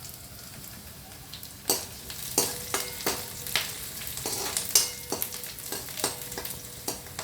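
Green chillies sizzling in hot oil in a pan, stirred with a spatula that scrapes and knocks against the pan in irregular strokes from about two seconds in.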